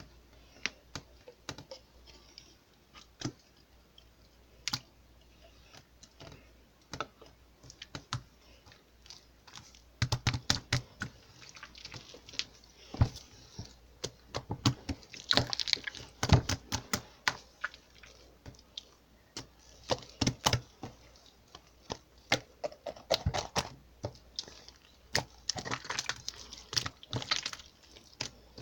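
Slime being pressed and stretched by hand, giving irregular sharp clicks and crackles, sparse at first and much denser after about ten seconds.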